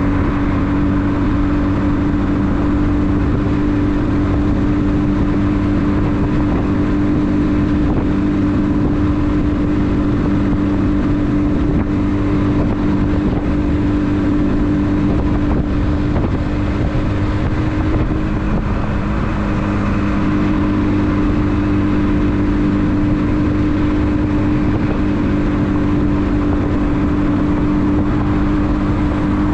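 1976 Yamaha RD400's two-stroke parallel-twin engine running steadily under way at a cruise, with a brief dip and a small shift in pitch a little past halfway.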